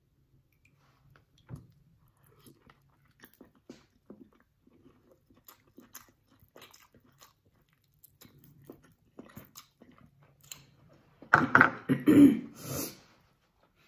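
Close-up chewing of king crab meat: small wet smacking and clicking mouth noises, scattered and irregular. About eleven seconds in comes a louder burst of mouth noise lasting a second or so.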